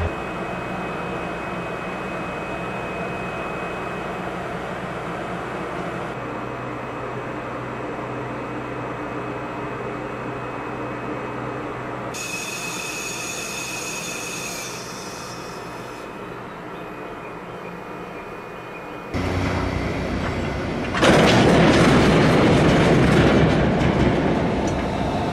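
EF210 electric freight locomotive and an oil tank wagon rolling slowly over the station's rails, with wheel and rail noise. The sound changes abruptly several times, and it is loudest for a few seconds near the end.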